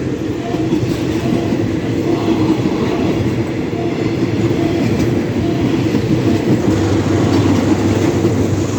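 Thai State Railway train passing a level crossing: a loud, steady rumble of wheels on the rails.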